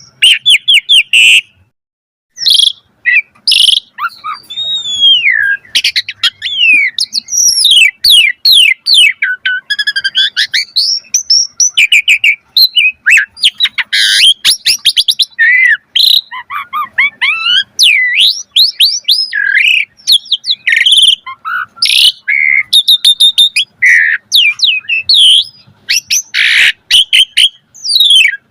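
Asian pied starling singing a long, varied song of rapid whistled glides, rattling trills and harsh notes, with a short pause about two seconds in. This is the bird in full, energetic song ('gacor') with many varied phrases ('isian').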